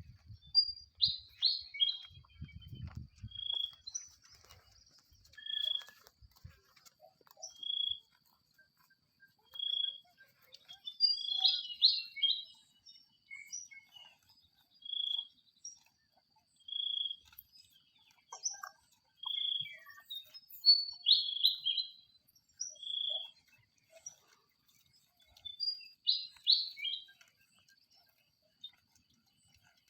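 Birds calling: a short single high note repeats about every two seconds, and bursts of quick chirping notes come in four times.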